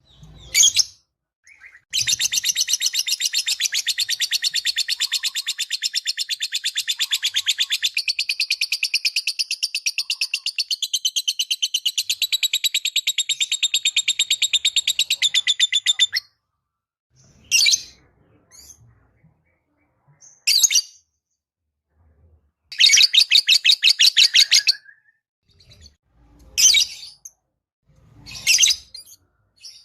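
Lovebird chattering in a long, rapid, high-pitched trill of about fourteen seconds, followed by several short bursts, one of them about two seconds long. It is the kind of lovebird song played as a lure to set other lovebirds singing.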